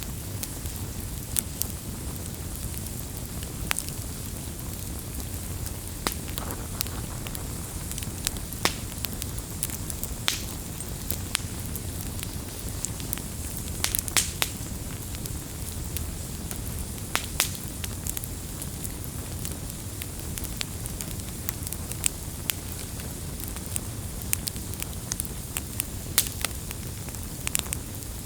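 Wood campfire crackling: a steady low rush of burning with irregular sharp pops and snaps scattered throughout.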